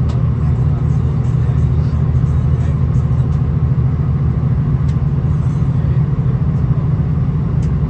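Steady low rumble inside a V/Line VLocity diesel railcar: the underfloor diesel engine running and the wheels rolling on the track, with a few faint light clicks.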